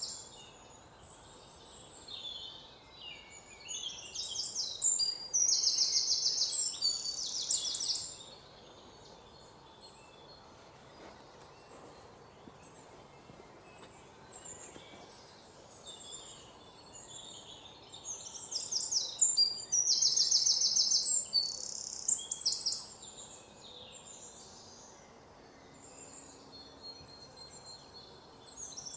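Songbirds singing high-pitched, rapidly repeated trilled phrases, in two loud bouts, the first a few seconds in and the second past the middle, with quieter scattered calls between.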